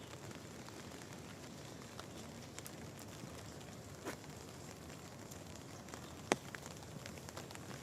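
Steady rain falling, with scattered drops ticking close by at irregular moments; the sharpest tick comes about six seconds in.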